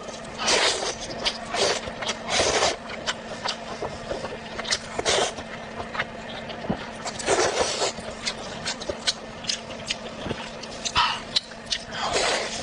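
Close-up chewing and crunching of food, irregular crunches and mouth sounds every second or so, over a faint steady hum.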